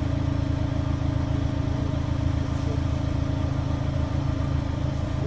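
2024 Mini Clubman's engine idling steadily with an even low hum.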